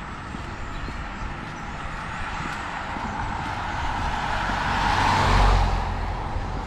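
A motor vehicle passing on a wet road: tyre hiss and engine rumble build to a peak about five seconds in, then fall away.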